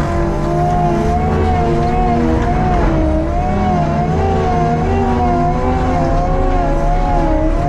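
Skid steer with a forestry mulcher head running: a steady engine drone with a whine that wavers rapidly up and down in pitch, and a second tone that slowly rises.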